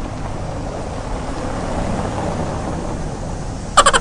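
Rushing noise of water and wind as a toy auto-rickshaw ploughs through a muddy puddle. Near the end a loud buzzing tone with a fast pulse cuts in.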